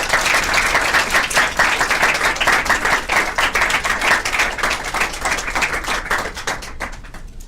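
Lecture audience applauding, dense clapping that thins out and stops near the end.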